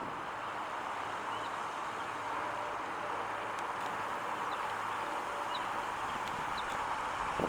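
Steady outdoor background noise, with a few faint, short bird chirps scattered through it.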